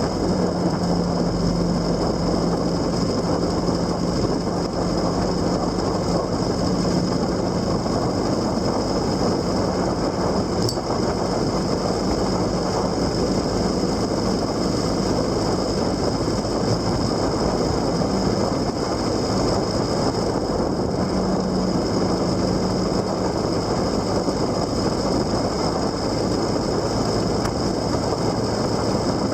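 Motorcycle engine running steadily while riding, with its low note wavering slightly under constant wind and road noise.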